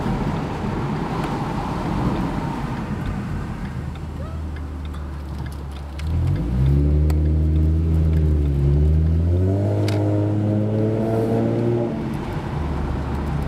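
2011 Ford Mustang's 3.7-litre V6 through a Roush axle-back exhaust: a low steady drone while cruising, then about six seconds in the engine is pushed and the exhaust note climbs sharply, dips briefly, climbs again, and falls back near the end.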